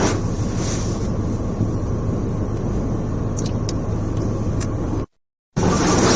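Steady rush of strong wind and rough surf with a low rumble, the wind buffeting the microphone. It cuts out for about half a second near the end, then comes back a little louder.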